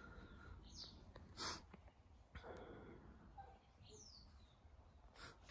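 Near silence: quiet room tone with a couple of faint, short downward chirps, like a small bird calling, and a brief soft rustle about one and a half seconds in.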